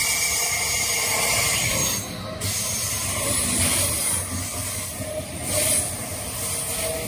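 Double-deck S-Bahn train running past close alongside the platform: a steady rush of wheel-on-rail and passing-carriage noise, with a short dip about two seconds in.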